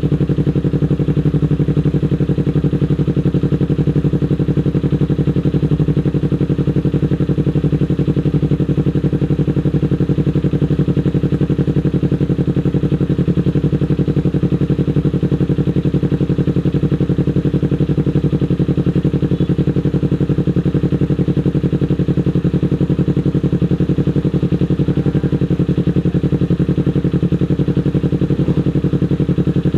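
A Kawasaki Ninja 250 FI (2018) parallel-twin engine idling steadily, with an even, unchanging note.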